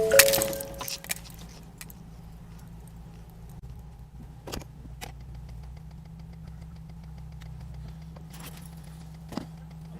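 Aftermath of a car crash: clattering glass and debris dying away over about the first second, with a short steady tone near the start. Then a steady low vehicle rumble with a few faint clicks.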